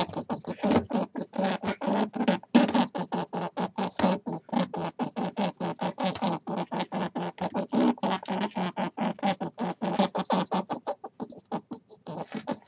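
Hare munching grass: rapid, even crunching chews, about five a second.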